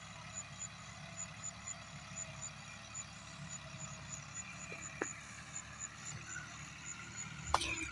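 Tractor engine idling steadily, with a faint high ticking about four times a second and a sharp knock near the end.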